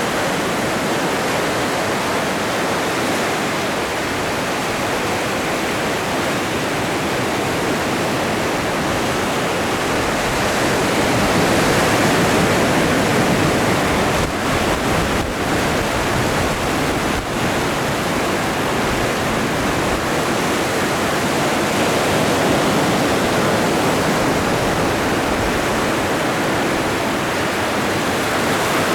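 Atlantic Ocean surf: waves breaking and washing continuously as a steady rushing noise, swelling a little about halfway through.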